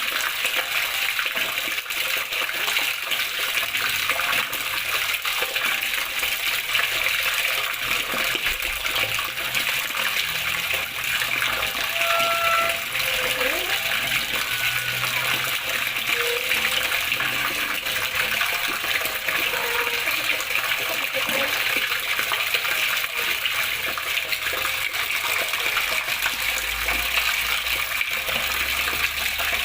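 Water flowing and splashing steadily, an unbroken rushing noise with no let-up.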